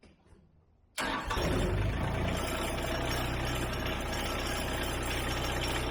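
LS MT125 compact tractor's diesel engine cold-started after the glow plugs were warmed: it cranks about a second in, catches almost at once, and settles into a steady idle.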